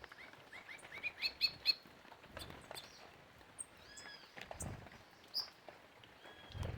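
Birds calling at a feeder: a quick series of short rising chirps over the first two seconds, then scattered whistled notes. A few low thumps come in about halfway through and near the end.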